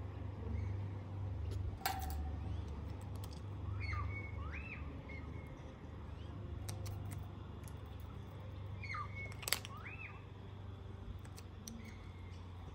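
Faint bird chirps: small groups of short calls that rise and fall in pitch, about four seconds in and again around nine to ten seconds, over a steady low rumble. Two sharp clicks stand out, one about two seconds in and a louder one near nine and a half seconds.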